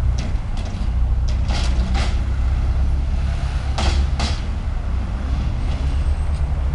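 ChME3 shunting locomotive's six-cylinder diesel engine running with a steady low rumble, with two pairs of sharp metallic clacks a couple of seconds apart.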